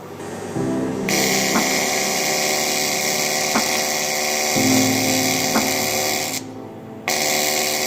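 AC TIG welding arc on aluminium, a steady buzzing hiss; it starts about a second in, breaks off briefly about six and a half seconds in and strikes again.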